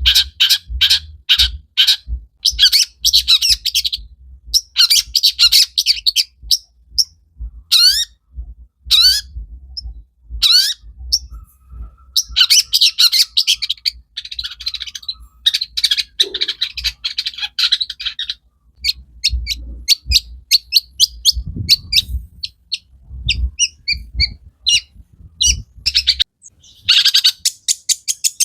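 Long-tailed shrike (cendet) singing a loud, varied song: rapid trains of sharp repeated notes and chatter in short phrases, with a few rising whistled notes about eight to ten seconds in, filled out with mimicked calls of other birds.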